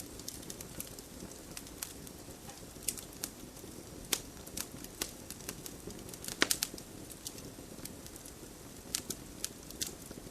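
Wood campfire crackling: irregular sharp pops and snaps over the steady low rustle of the flames, with a quick burst of the loudest pops about six and a half seconds in.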